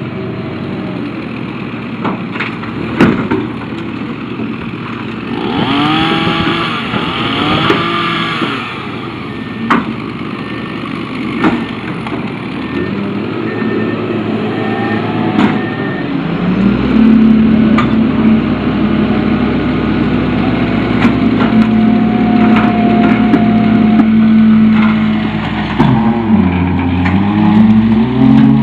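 Rear-loader truck's packer crushing tree branches, with wood cracking and splintering in sharp snaps throughout. The truck's diesel engine revs up about halfway through and holds a steady raised speed while the packer works.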